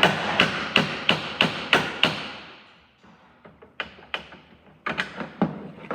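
Sharp tool taps on metal, about three a second for two seconds, then a few scattered knocks, as a wiper arm is worked loose from its shaft.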